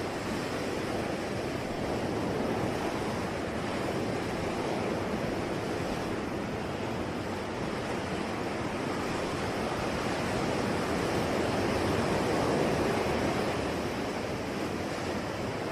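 Ocean waves breaking and washing on the shore, a steady surf rushing that swells gently about two-thirds of the way through.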